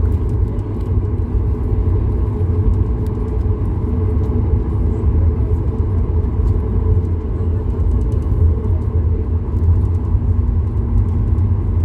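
Steady low rumble of a Boeing 737-8200 MAX heard from inside the passenger cabin: its CFM LEAP-1B engines and airflow make an even drone, with a faint steady hum above it.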